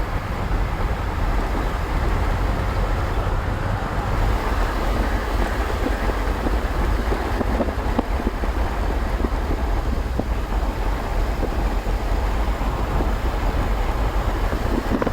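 A car driving along a road: a steady low rumble of engine and tyre noise under a constant rushing hiss.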